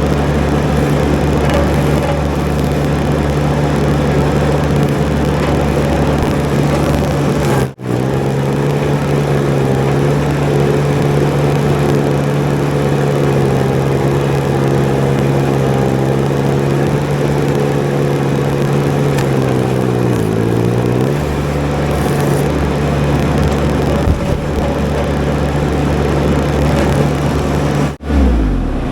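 Baumalight TRL620D mini skid steer's diesel engine running steadily under working load, its pitch sagging and recovering about twenty seconds in as it bogs briefly under load. The sound breaks off abruptly for a moment about eight seconds in and again near the end.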